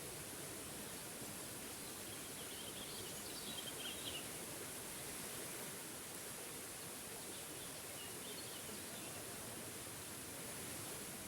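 Steady rushing of a small forest waterfall, with a songbird chirping in two short bursts, about three seconds in and again near eight seconds.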